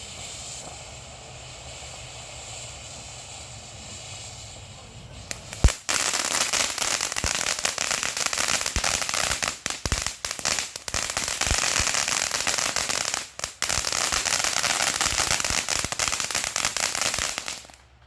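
A steady hiss for about five seconds, then a firework goes off in a dense, rapid crackle of small pops with a few louder bangs. The crackle lasts about twelve seconds and stops abruptly.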